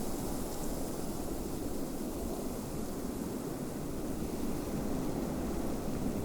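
Snowstorm wind blowing steadily: a low, even noise with a faint hiss above it.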